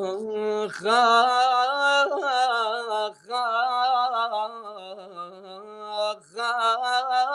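A man singing unaccompanied in a drawn-out Arabic vocal style, holding long ornamented notes. He breaks briefly for breath about three seconds in and again about six seconds in.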